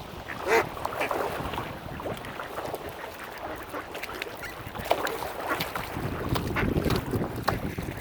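Mallard ducks calling among short splashy knocks, with wind buffeting the microphone.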